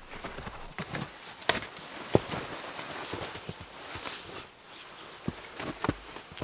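A person moving about in snow: irregular crunches and knocks, a sharp one about two seconds in and a quick cluster near the end, over a faint steady hiss.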